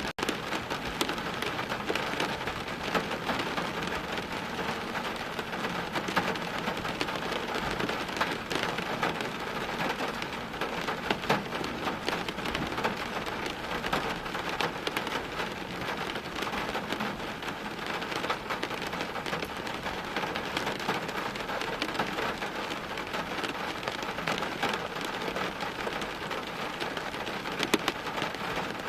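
Steady heavy rain, with many individual drops ticking sharply on hard surfaces.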